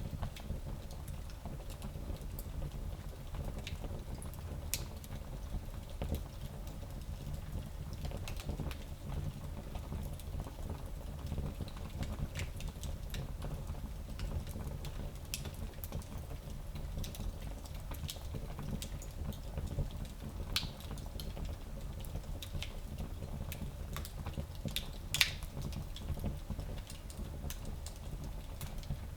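Fire in a small fireplace crackling, with irregular sharp pops and snaps over a steady low rumble of the flames. One louder pop comes near the end.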